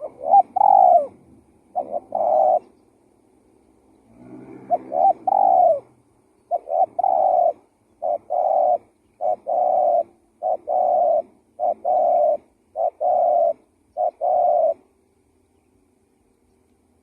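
Spotted dove (tekukur) cooing a repeated lure call: about eleven phrases, most a short coo followed by a longer one, at roughly one a second, stopping a couple of seconds before the end.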